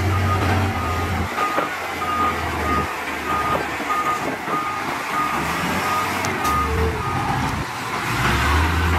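Heavy machine's reversing alarm beeping at a steady rate, a little under two beeps a second, over a diesel engine running. The beeping stops about six seconds in, while the engine keeps running.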